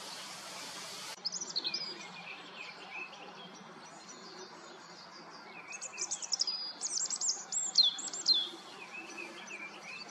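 Small birds chirping: short high calls and sharp downward-sweeping notes, a first burst about a second in and a denser run from about six to eight and a half seconds. Before them a steady hiss cuts off suddenly about a second in.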